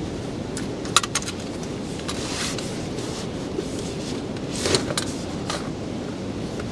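Steady blizzard wind rushing, with a few sharp clinks and rattles over it. The loudest clink comes about a second in, and another cluster comes near the five-second mark.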